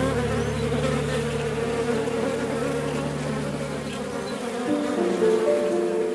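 Swarm of bees buzzing in a steady drone, the pitch shifting a little near the end.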